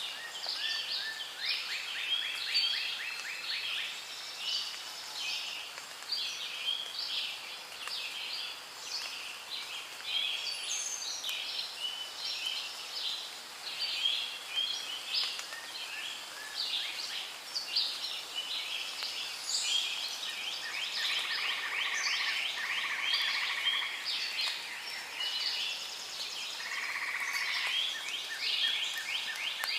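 Rainforest soundscape: a dense, overlapping chorus of high chirps and rapid repeated trills from calling birds, frogs or insects, going on without a break.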